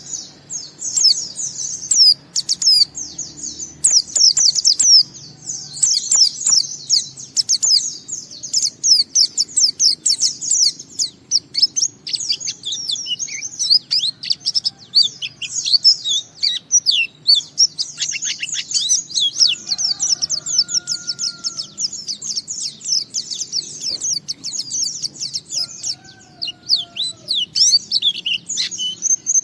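White-eye (pleci) singing a long, unbroken, fast twittering song of high chirps, the 'ngalas' song that Indonesian keepers use to set other white-eyes singing.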